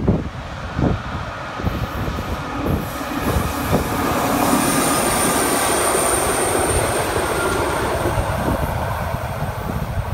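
Small rail tractor with a loading crane passing close, hauling flat wagons of rubble: engine running and wheels rumbling over the track, with a thin high wheel squeal in the middle as it rounds the curve. The train noise is loudest in the middle and fades near the end, with gusty wind buffeting the microphone.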